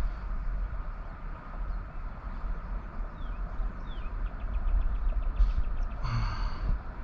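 A steady low outdoor rumble. A few short falling bird chirps and a quick trill come midway, and a brief bird call follows near the end.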